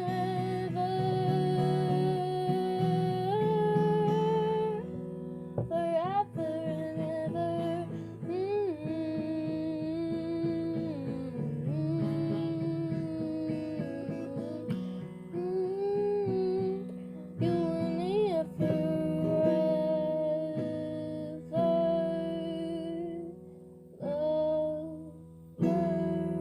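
A voice singing a slow melody of long held notes with a slight waver, without clear words, over a plucked acoustic guitar.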